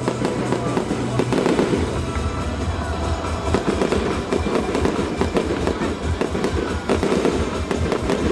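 Fireworks crackling and popping in quick succession, with music playing underneath.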